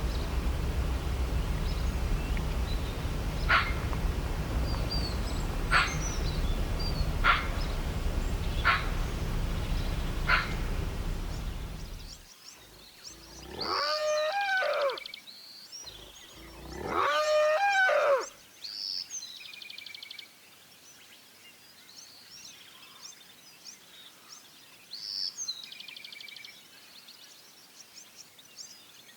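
An animal gives two loud calls a couple of seconds apart, each about a second and a half long, rising and then falling in pitch. Before them a low rumble runs with a sharp click every second or two, and it stops about twelve seconds in. Faint high chirps scatter through the rest.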